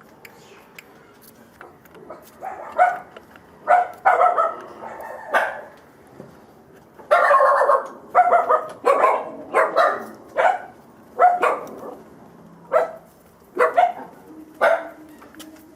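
A dog barking repeatedly in short, sharp barks, spaced irregularly at about one to two a second. The barks begin about two seconds in and are loudest around the middle.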